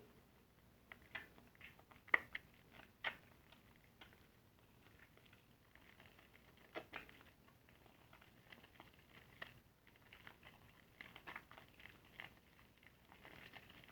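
Soapy car sponge being squeezed and lathered: faint, irregular crackling and clicking of lather, with a couple of sharper pops about two and three seconds in.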